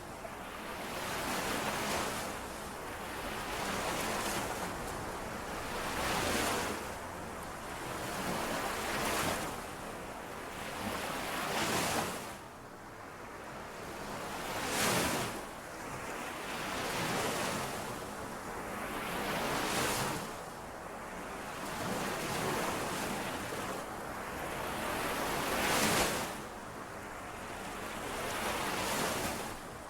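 Lake waves washing in and out, a hissing surge every two to three seconds.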